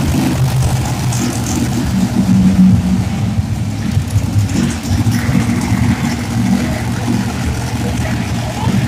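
Monster truck engine running and revving with a loud, deep rumble.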